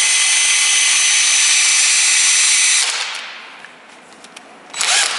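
Electric power drill running at a steady speed with a high whine, then stopping about three seconds in; a short loud clatter near the end.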